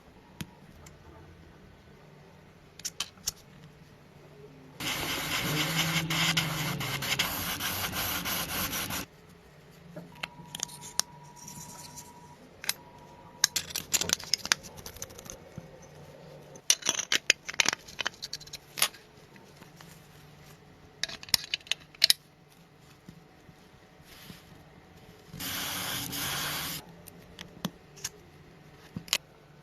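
Hand work on parts: scraping, rubbing and sharp clicks, with two bursts of steady hiss, one about four seconds long around five seconds in and a shorter one near the end.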